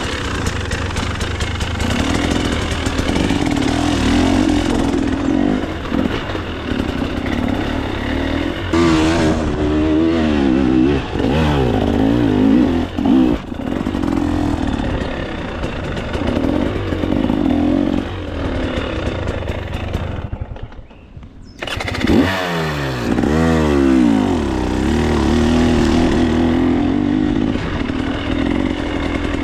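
KTM 300 XC-W two-stroke dirt bike engine revving up and down under riding load, with repeated rising and falling pitch sweeps. About twenty seconds in, the sound drops away briefly, then revs back up.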